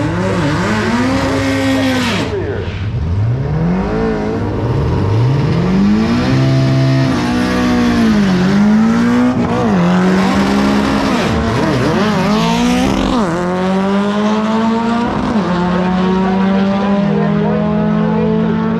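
Drag racing cars' engines being revved, pitch swinging up and down again and again as they blip the throttle, then two engines held at steady high revs together near the end.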